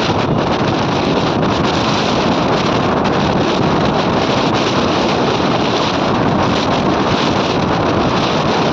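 Steady wind noise rushing over the microphone, an even unbroken roar with no let-up.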